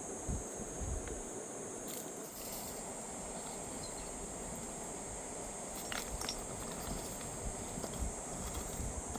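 Insects chirring in one steady high-pitched band over a low, even rushing noise, with a few faint clicks about six seconds in.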